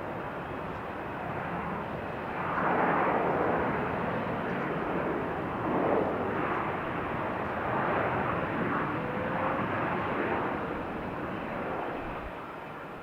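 An airplane passing with its engines running: a broad roar that swells about two and a half seconds in, holds with a few surges, and fades away near the end.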